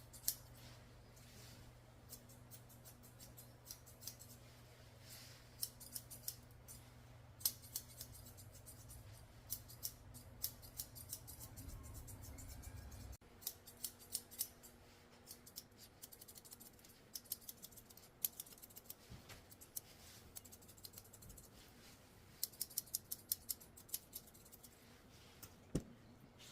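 Curved chunker shears snipping a poodle's coat, faint, in quick irregular runs of small snips with pauses between.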